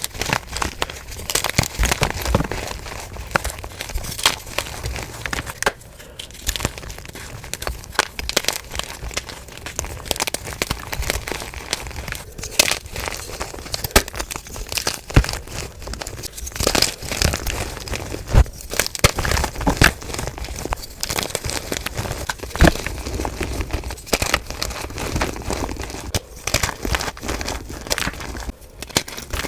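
Blocks of dyed gym chalk being crushed and crumbled, a dense run of dry, irregular crunching and crackling, played at double speed.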